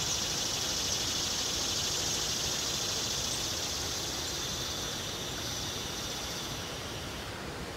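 A steady, high-pitched insect chorus over a broad outdoor background hiss. It fades out near the end.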